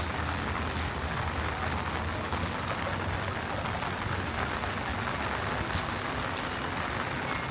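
Steady rain falling and pattering on hard surfaces, with a dense hiss and scattered small drip clicks.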